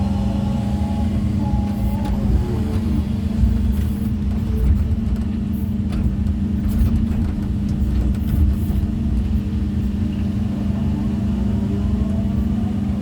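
Excavator's diesel engine running steadily under load, with a hydraulic whine that rises and falls as the arm moves, and a few sharp knocks of natural stone being handled.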